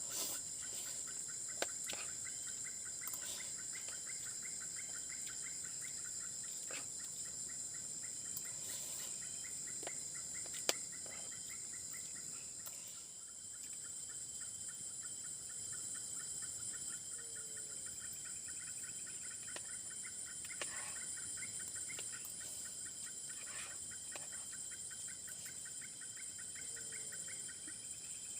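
Steady chorus of insects, crickets or cicadas: a constant high-pitched trill with a rapid pulsing chirp beneath it. A few sharp clicks are heard, the loudest about a second and a half in and about ten seconds in.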